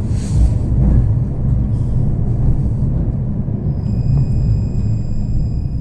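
Low, steady rumble of a tram running, heard from inside the car, with a brief hiss near the start and a steady high whine that sets in about four seconds in.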